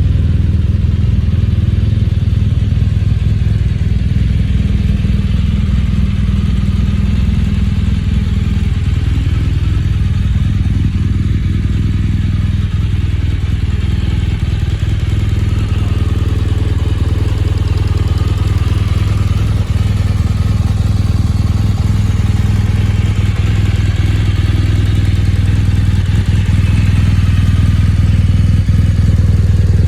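BMW R1200GS flat-twin (boxer) engine idling steadily through an Akrapovic exhaust.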